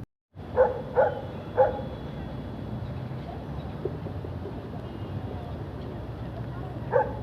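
A dog barking three times in quick succession, then once more near the end, over a steady low engine hum.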